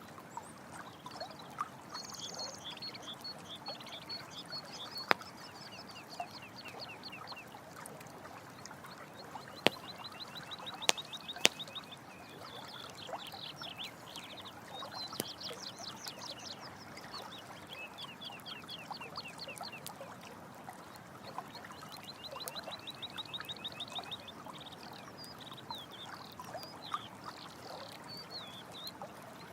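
Running water with a campfire giving occasional sharp crackling pops, the loudest a few around ten seconds in. Rapid high trilling calls of night creatures repeat over it.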